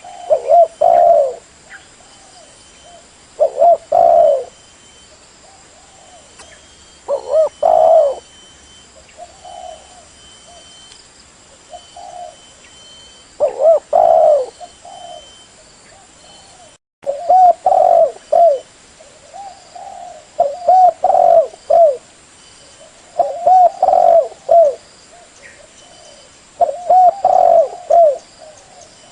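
Spotted dove (tekukur) cooing: a loud phrase of several low coos repeated every three to four seconds, with fainter coos between the phrases.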